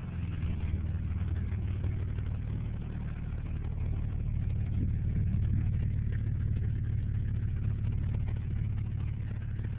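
Ford truck engine idling steadily through a newly rebuilt dual exhaust, a low, even rumble.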